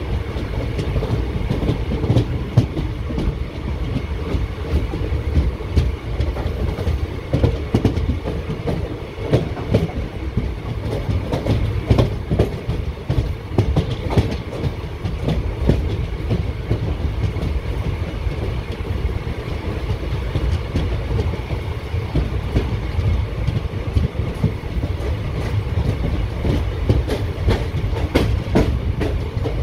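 ICF passenger coaches running at speed on the track: a steady low rumble, with wheels clicking and clattering over the rail joints throughout.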